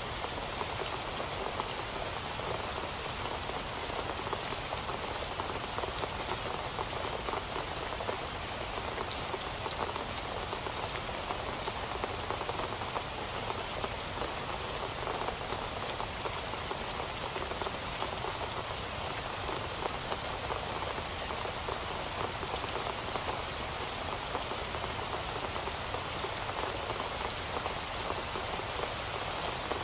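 Steady rain falling, a dense patter of drops on a surface with no change throughout.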